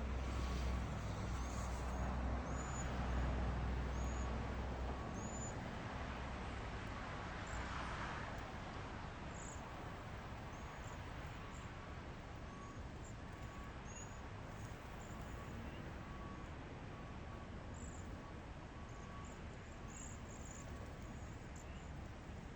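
Small birds chirping, short high calls repeating all through, over a steady outdoor hiss. A faint beep repeats at an even pace throughout, and a low rumble sits under the first few seconds.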